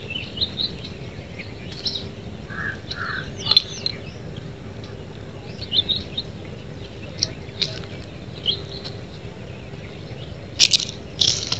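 Wild birds chirping and calling in short, scattered notes, with a couple of lower two-note calls early on and a sharper cluster of chirps near the end, over a faint steady low hum.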